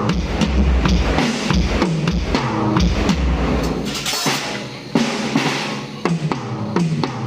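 Drum kit played through a PA sound system during a sound check: heavy bass-drum hits and snare strikes in a steady groove, with a cymbal crash about four seconds in.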